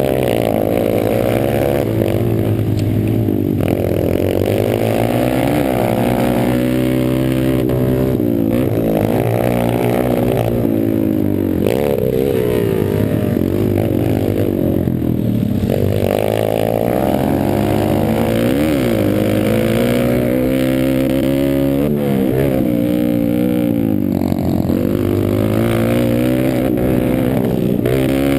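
Pit bike engine being ridden hard, revving up and dropping back over and over as the throttle is opened and closed and the gears change.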